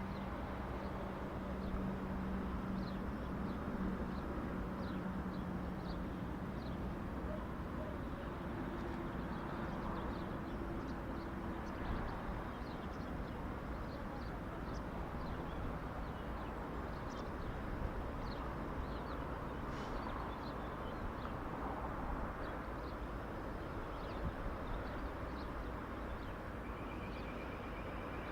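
Steady outdoor rumble with a low hum that fades away over the first several seconds, and many short high chirps scattered throughout.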